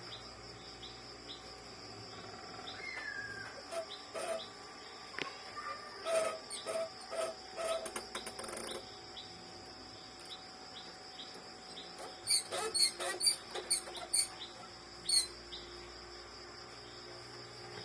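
Steady high insect chirring in the background, with scattered sharp clicks and taps of printer parts being handled. The clicks come as a louder cluster about two-thirds of the way through.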